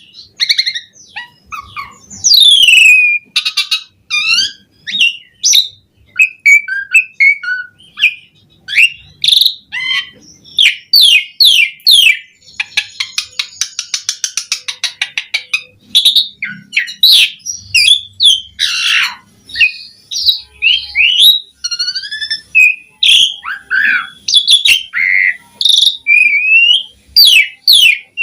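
Javan pied starling (jalak suren) in full song: a long, varied run of slurred whistles and chattering notes, with a fast rattle of clicks about twelve seconds in. This is a bird 'gacor', singing continuously through its repertoire of learned phrases.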